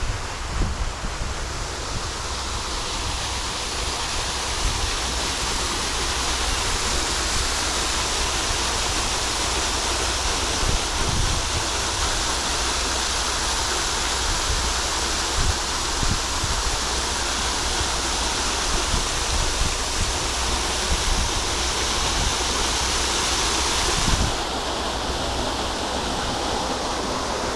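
Steady outdoor rushing noise, with wind buffeting the microphone in irregular low thumps. The hiss changes abruptly about 24 seconds in.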